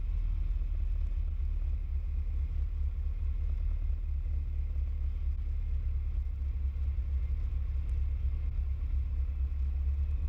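Steady low drone of a Piper PA-28 Cherokee's four-cylinder Lycoming piston engine and propeller, heard in the cockpit.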